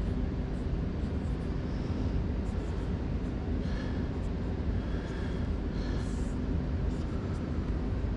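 Steady low machinery hum with a faint electrical drone, with a few brief light clinks and scrapes of parts being handled about halfway through.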